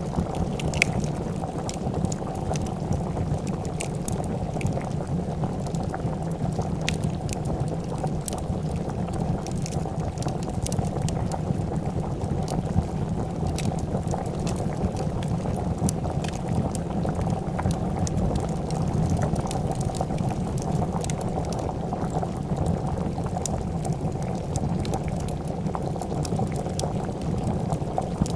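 A pot of soup bubbling at a steady boil, with scattered sharp crackles and pops of a wood fire throughout.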